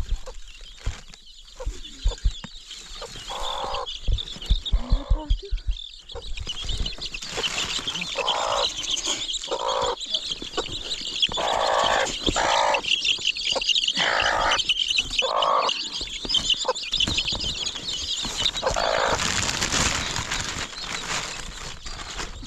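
Chickens clucking and calling, with a steady high chirping of birds behind them. There is a run of low knocks in the first six seconds.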